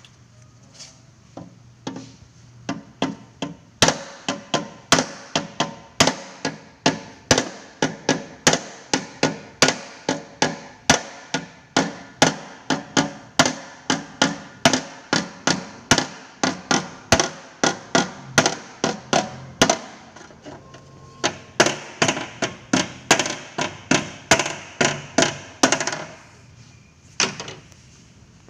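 Hammer tapping out a dent in a Vespa's steel body panel: a long run of sharp, ringing metal blows, about two to three a second, with a short pause partway through.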